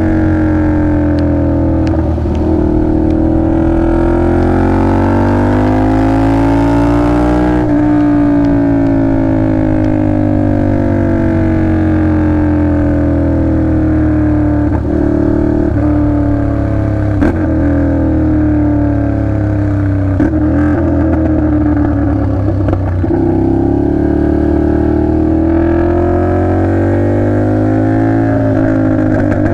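2009 Ducati Monster 696's air-cooled L-twin engine running, its note rising and falling in slow, long sweeps with a few small clicks.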